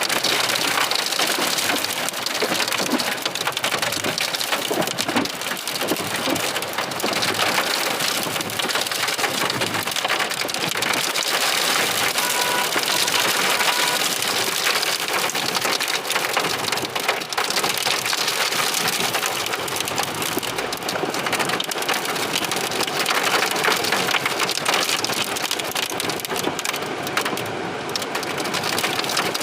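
Heavy storm precipitation beating down steadily on surfaces: a dense, even hiss made of countless small hits.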